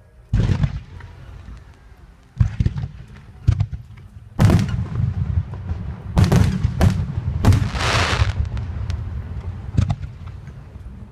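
Aerial fireworks shells bursting in a series of sharp booms, each with a deep rumbling echo, the bursts coming closer together after the first few. Later a burst of dense crackling follows.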